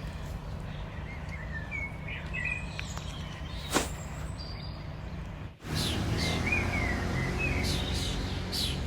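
Small birds chirping a few short times over a steady low outdoor rumble, with one sharp click a little before the middle and a brief cut-out just past halfway.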